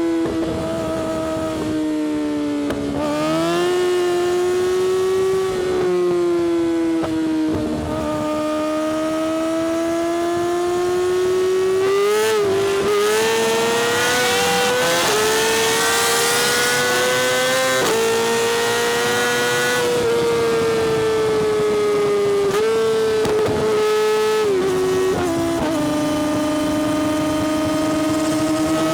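Yamaha R6's inline-four engine through an Akrapovič exhaust, held at high revs while riding. The pitch climbs and falls with the throttle, with several sudden drops in pitch as it shifts gear.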